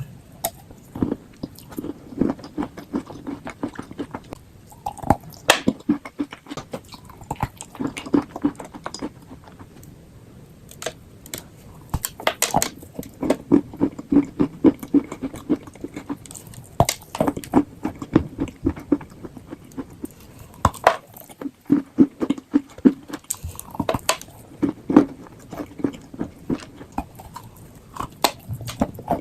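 A person biting and chewing chalk and clay, close to the microphone: sharp crunches again and again, with stretches of chewing between them.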